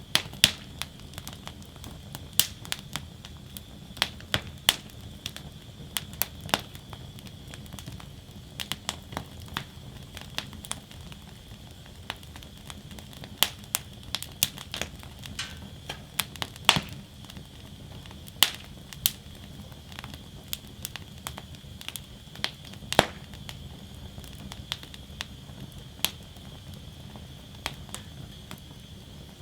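Wood fire burning in a fire basket: irregular sharp crackles and pops, some much louder than others, over a low steady rumble of flames and a faint steady hiss.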